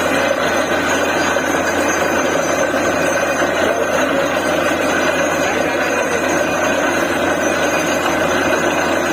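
DTH borewell drilling rig running: a loud, steady engine and machine noise that does not change.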